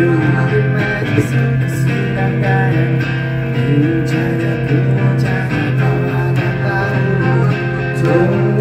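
Live rock band playing an instrumental passage: electric guitar over a steady bass line and drums.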